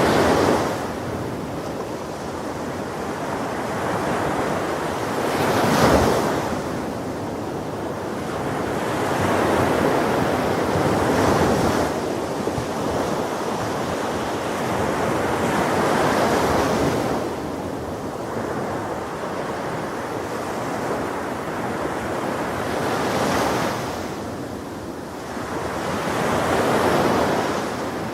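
Ocean waves breaking on a shore, the surf swelling and falling back about every five or six seconds, with one sharper crash about six seconds in. Wind rumbles on the microphone under the surf.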